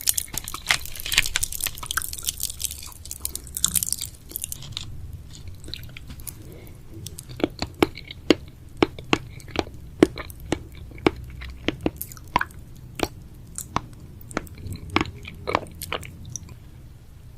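A person chewing chewy candy close to the microphone: dense crunching for the first few seconds, then a long run of sharp, wet clicks and smacks, about three a second.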